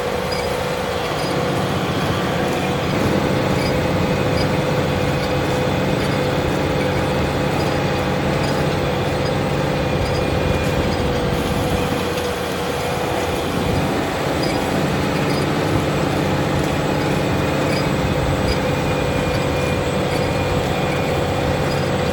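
Large Fendt tractor running steadily under load while pulling a plough, with a steady whine above the engine noise and a slight dip in level about halfway through.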